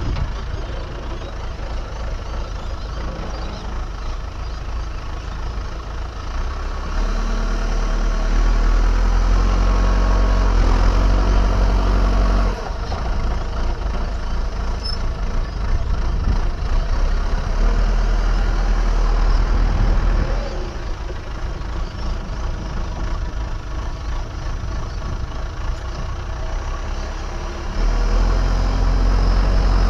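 Diesel engine of an earthmoving machine running steadily and working under load: it rises several times, about seven seconds in, again in the middle and near the end, and drops back to a lower run in between.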